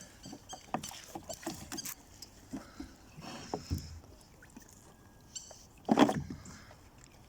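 Scattered knocks and clatters of gear in a small boat on the water, with one louder thump about six seconds in.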